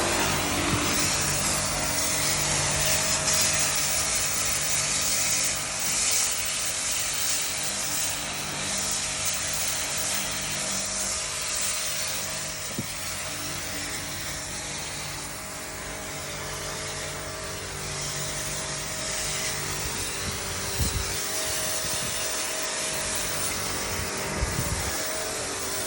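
Steady machine hum with a hiss, several low tones held throughout, and a few brief knocks near the end.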